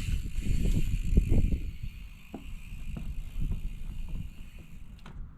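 Bicycle rolling down a dirt roll-in, tyres rumbling on the dirt with wind on the microphone. The rumble drops off after about a second and a half to a quieter roll with scattered clicks and knocks.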